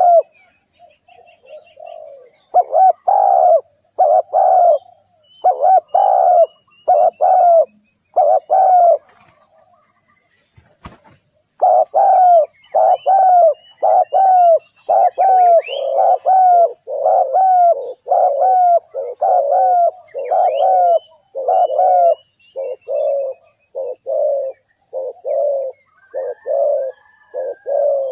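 Spotted doves cooing: short coo notes repeated in quick runs, about two a second. A pause about nine seconds in is broken by a single faint click. Faint high chirps of small birds sound above the coos.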